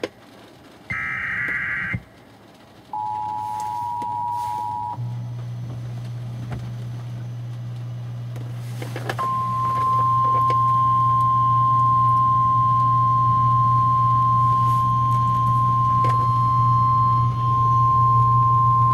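Emergency alert broadcast on a radio announcing a tornado warning. It opens with short warbling digital data bursts, then a two-tone attention signal lasting about two seconds, then a single steady high alert tone from about halfway in to the end, over a low hum.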